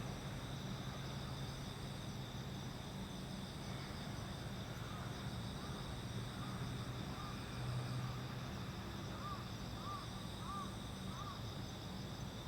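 Crickets or similar night insects chirring steadily over a low, steady hum. A short series of small, high chirps comes in the second half.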